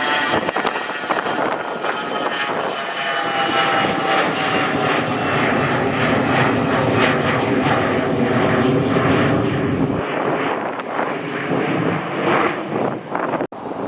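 An airliner passing close by, its engines making a loud steady noise with whining tones that slide lower as it goes past; the deepest part of the noise drops away about ten seconds in.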